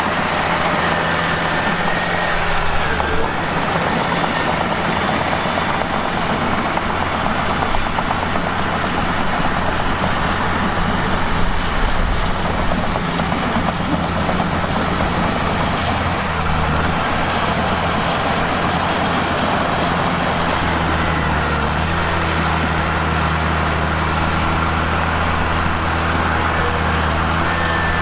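A bulldozer's diesel engine running steadily, with its note changing a few times.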